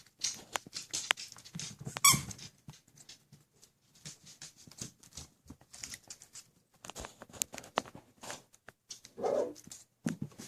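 Puppies moving about with scratchy rustling and small clicks, and two short high cries: one about two seconds in, another near the end.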